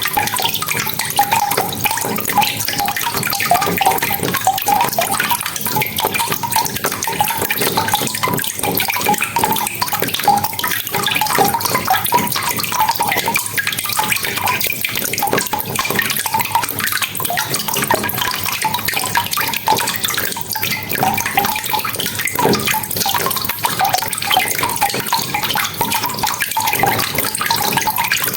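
Steady rain: a dense, even patter of countless drops and splashes.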